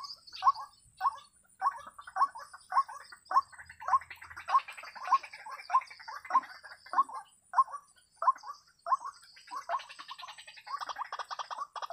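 White-breasted waterhen (ruak-ruak) calling: short repeated notes about two a second, running closer together into a denser chatter near the end.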